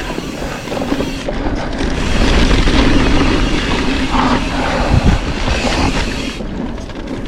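Wind rushing over the microphone with the mountain bike's tyres and frame rattling on a dirt trail descent, with a louder thump about five seconds in.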